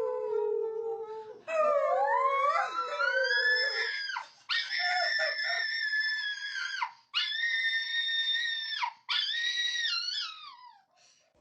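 Howling in long, drawn-out calls: a falling howl, then several overlapping gliding calls, then three long high notes held one after another, each cut off abruptly, the last wavering down near the end.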